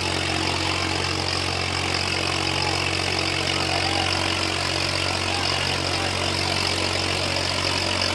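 Swaraj 855 tractor's three-cylinder diesel engine running steadily at a constant speed.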